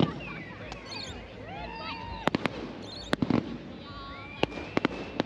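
Fireworks going off in a string of sharp bangs, some in quick clusters, with people's voices and whoops in between.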